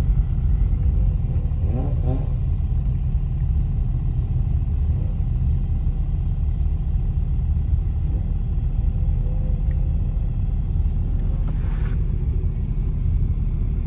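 Steady low rumble of a car's engine and road noise, heard from inside the cabin, with a short rising whine about two seconds in and a brief burst of hiss near the end.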